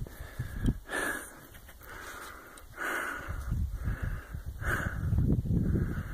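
A person breathing hard, about one breath a second, after a steep climb, with wind rumbling on the microphone in the second half.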